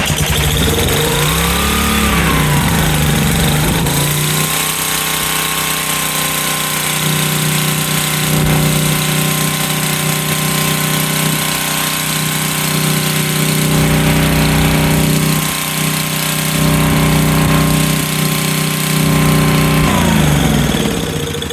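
Generac SVP 5000 generator engine running on starting fluid, its choke not yet hooked up, after a new carburetor was fitted. The speed surges up and down for the first few seconds, then settles to a steady run, and falls away near the end.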